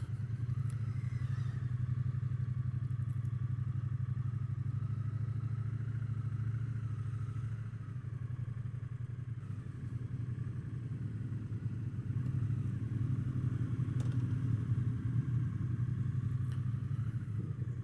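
Triumph Bonneville T120's 1200 cc parallel-twin engine running steadily at low revs as the motorcycle is ridden slowly.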